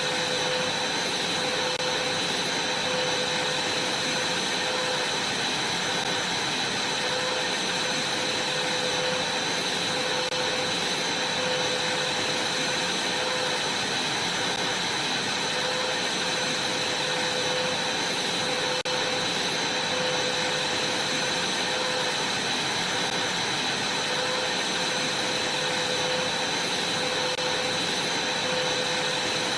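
Vacuum cleaner running steadily: a continuous rushing noise with a steady high whine.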